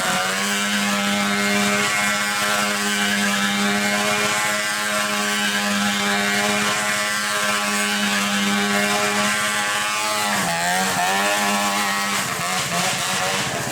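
Small petrol engine running at a steady speed, its pitch dipping briefly about ten seconds in and then coming back up.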